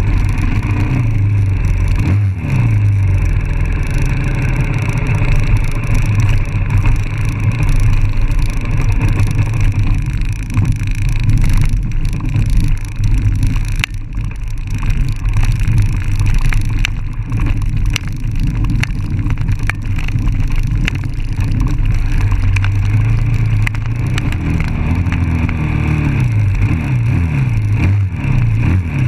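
Dirt bike engine running while riding an off-road trail, heard close up from the bike itself, the revs rising and falling repeatedly near the end.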